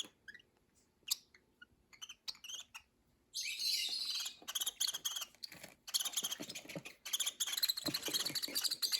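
Peach-faced lovebirds chirping: a few scattered high chirps at first, then from about three seconds in a steady stream of rapid, high-pitched chirping.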